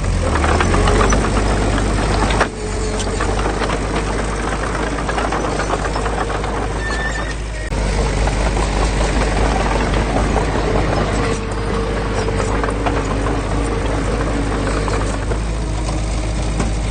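Heavy construction machinery's diesel engine running steadily under load, with a constant low hum and a dense clatter of rapid knocks.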